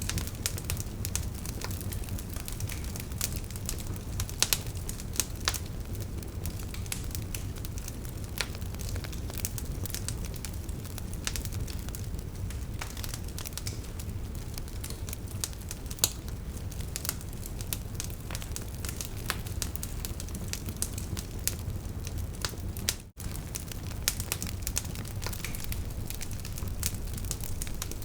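Wood fire burning, its logs crackling with irregular sharp pops over a steady low rumble of flames. The sound cuts out for a split second about two-thirds of the way through.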